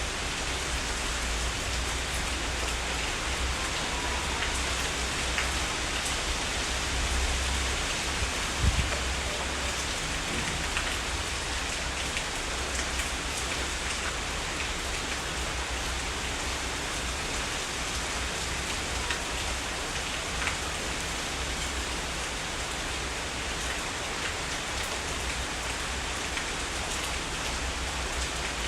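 Heavy rain falling steadily, over a constant deep low rumble. A single brief low thump about nine seconds in.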